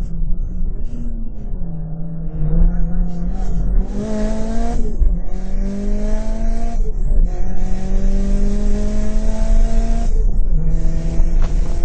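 Mitsubishi Lancer Evolution IX's turbocharged 4G63 four-cylinder engine under hard acceleration, heard from inside the cabin. It rises in pitch through each gear and drops sharply at three upshifts, about two to three seconds apart, over steady road and wind noise.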